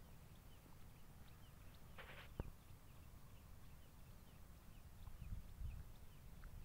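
Quiet outdoor ambience with a bird's faint, short, falling chirps repeated about three times a second. A brief rustle and click come about two seconds in, and a low rumble is loudest around five to six seconds in.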